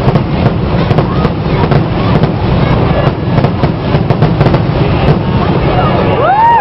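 Aerial fireworks finale barrage: a continuous rapid string of booms and crackling with a heavy low rumble. A spectator's rising whoop starts at the very end.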